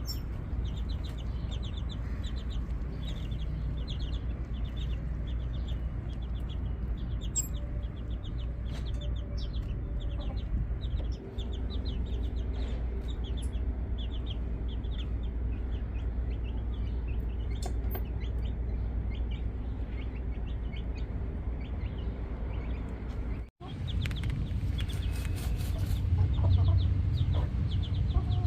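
Backyard chickens calling: a steady run of short, high, repeated calls over a low rumble. The sound drops out for an instant about three-quarters of the way through.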